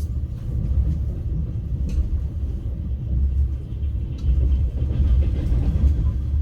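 Steady low rumble of a passenger train in motion, heard from inside the carriage, with a couple of short clicks about two and four seconds in.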